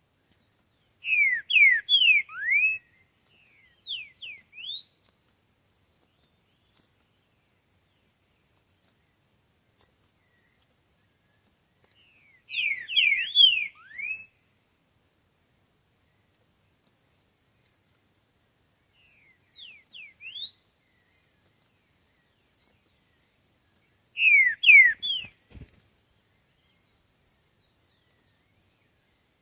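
Green-winged saltator (trinca-ferro) singing: three loud phrases of quick, falling whistled notes roughly eleven seconds apart, with two quieter short phrases between them.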